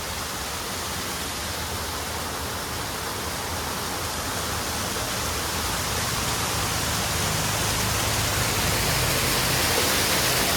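Waterfall splashing, a steady rushing of falling water that grows gradually louder.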